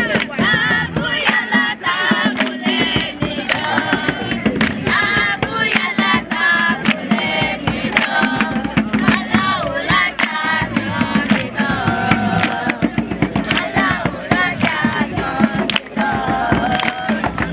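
A group of voices singing together over a run of sharp percussive beats.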